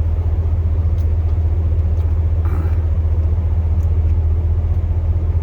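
Chevrolet Silverado plow truck's 8.1-litre big-block gas V8 running, heard from inside the cab as a steady low drone.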